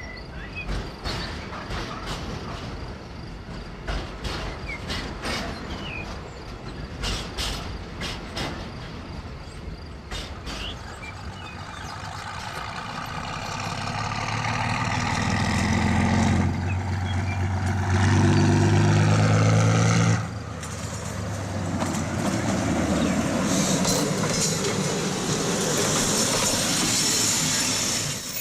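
HO scale model trains running on the layout's track: irregular clicking of small wheels over rail joints at first, then a train coming closer and running louder with a low, steady hum. Near the end a high-pitched wheel squeal comes in.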